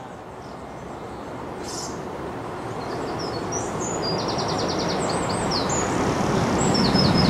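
A steam-hauled train approaching, its rumble growing steadily louder. Small birds chirp over it, with a quick trill of about ten even notes around four to five seconds in.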